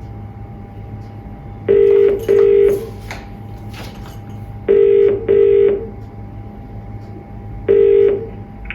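British telephone ringing tone on an outgoing call, heard through a phone's loudspeaker: the double-ring cadence, two short beeps then a pause, repeats about every three seconds, and the last ring is cut off after one beep as the call is answered.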